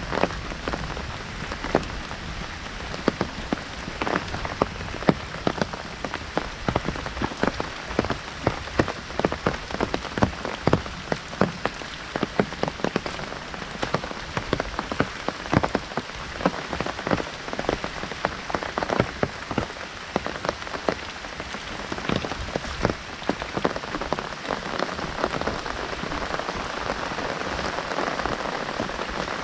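Heavy rain drumming on an umbrella held overhead: a dense, steady patter of individual drops hitting the canopy over the hiss of rain falling all around.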